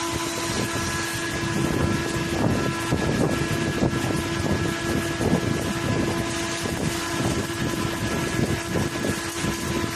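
Arc welding on a large steel pipe: the arc crackles steadily and irregularly over a constant hum of running machinery.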